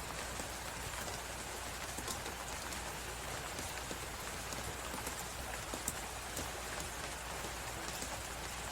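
Crackling fireplace, with scattered sharp pops and ticks over a steady hiss of blizzard wind.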